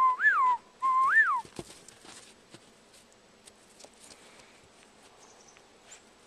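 A person whistling two short phrases: each holds a steady note, then swoops up and back down. After about a second and a half, only faint outdoor background with a few small clicks.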